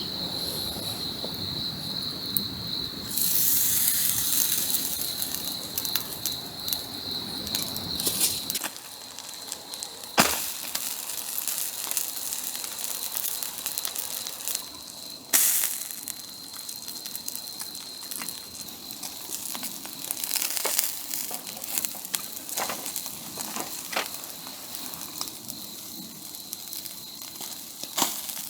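Wood campfire crackling, with sharp pops and snaps at irregular intervals, the loudest about a third and about halfway through. Crickets chirp steadily, clearest in the first few seconds and fainter afterwards.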